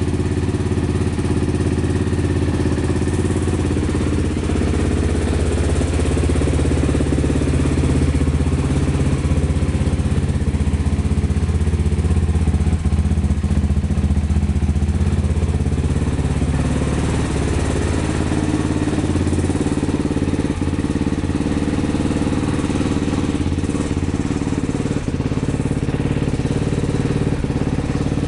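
Honda Tornado motorcycle's new 326cc engine idling steadily.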